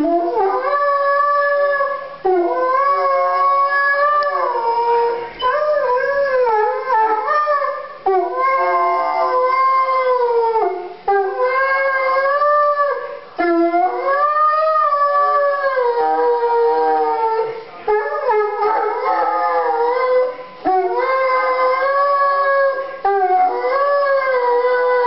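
Young Chesapeake Bay Retriever howling: a string of long, wavering howls, each one to three seconds long, with short breaks for breath between them.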